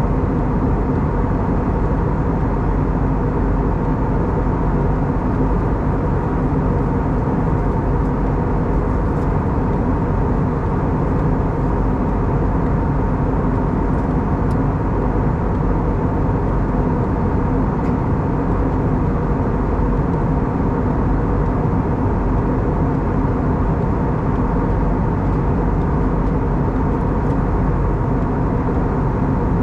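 Steady cabin drone of an Airbus A320neo with CFM LEAP-1A engines: engine and airflow noise with a constant hum of several held tones, heard from a seat inside the passenger cabin.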